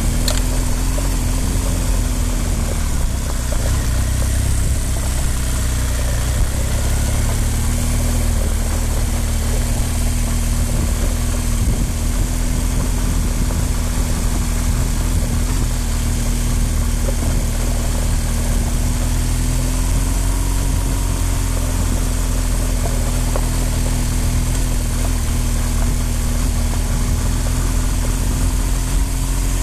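Motorcycle engine running steadily at low speed on a dirt track, heard from the riding bike, its note holding nearly even with slight rises and dips, over a heavy low rumble.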